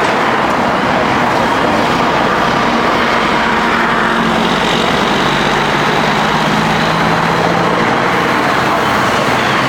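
Steady road noise of highway traffic, a continuous rush of tyres and engines with a low engine hum.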